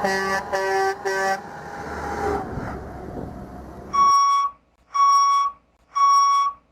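Truck horn sounding three short blasts, followed by vehicle noise that fades out. Then a truck's reversing alarm beeps three times, about one beep a second.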